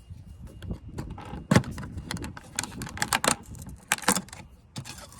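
Plastic clicks and scrapes as a pry tool works a door courtesy light out of a 2004 Chevy Silverado's door panel, with a sharp snap about a second and a half in and further clusters of clicks after.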